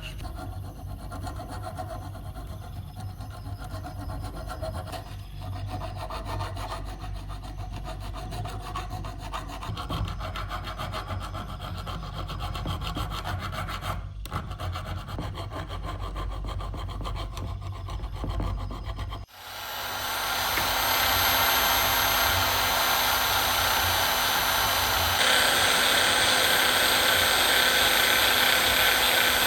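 Rapid back-and-forth scraping of a hand saw or rasp working the material. About two-thirds of the way in it stops abruptly, and an electric power tool spins up and runs with a steady, louder hum and whine.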